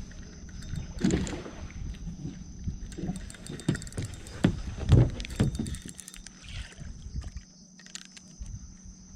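Small boat drifting on choppy water, with irregular knocks and thumps against the hull, the loudest about five seconds in. A faint steady high whine runs underneath.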